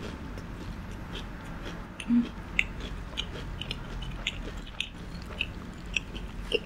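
Close-miked chewing of crispy fried pork: irregular crunches and wet mouth clicks, with one louder short low sound about two seconds in.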